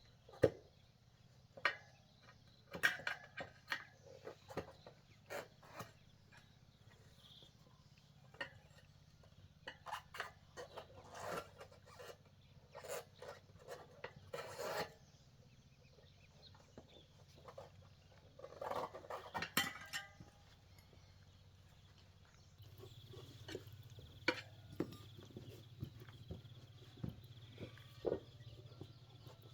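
Irregular clinks, knocks and scraping of hand tools and objects being handled, in clusters, over a steady low hum; a faint steady high tone joins about two-thirds of the way through.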